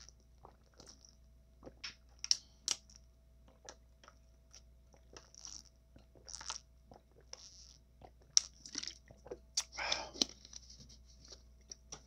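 Close-miked eating sounds of a person chewing a taco: irregular sharp crunches and wet mouth clicks with short pauses between them, and a longer crackly stretch near the end.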